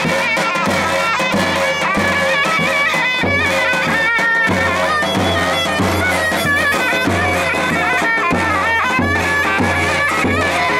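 Traditional folk music: a shrill reed wind instrument plays an ornamented, wavering melody over a steady, repeating bass drum beat.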